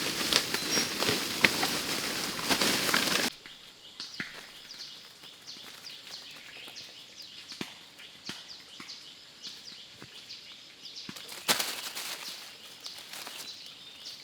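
Rustling and crunching through dry leaf litter and brush, stopping abruptly about three seconds in, then quieter forest ambience with many short, high, repeated chirps of birds or insects and scattered light clicks, and another brief rustle near the end.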